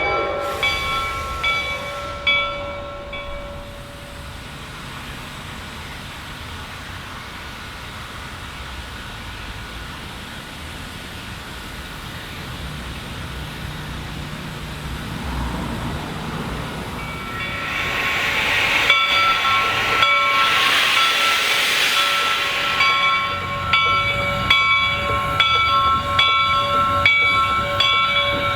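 Reading & Northern 425, a 4-6-2 steam locomotive, with its bell ringing in steady repeated strokes. The bell drops away for a quieter stretch. After about two thirds of the time a loud rush of steam hiss rises and fades, and the bell rings again.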